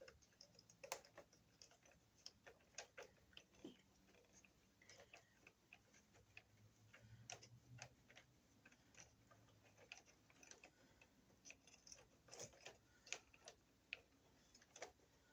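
Faint, irregular small clicks and scrapes of a plastic wire nut being twisted down onto a bundle of copper conductors until it grabs them all.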